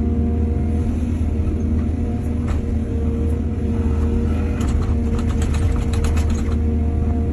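Excavator's diesel engine running at a steady pitch, with a run of rapid rattling and clatter for about two seconds past the middle.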